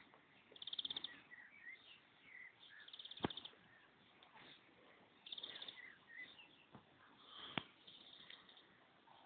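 Faint songbird calls: short rapid high trills several times over, mixed with small rising and falling chirps. Two sharp clicks stand out, about three seconds in and near the end.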